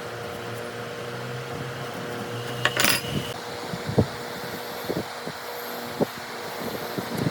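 A series of sharp knocks, about one a second, over a steady fan hum, with a short clattering rattle about three seconds in.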